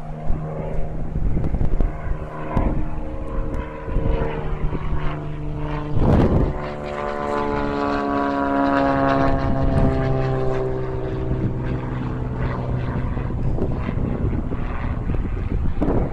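Cessna P210 Centurion's turbocharged Continental TSIO-520 flat-six engine and propeller at takeoff power. It is a loud, steady drone whose pitch falls in the middle as the plane goes by.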